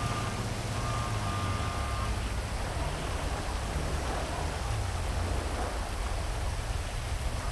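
Heavy rain falling steadily over a city, a dense even hiss, with a low rumble of traffic underneath. A faint steady tone, from several pitches at once, sounds through the first two seconds, then stops.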